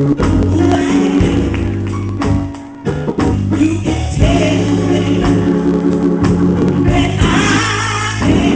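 Gospel music: singing over a band with bass and drums, the level dropping briefly just before three seconds in.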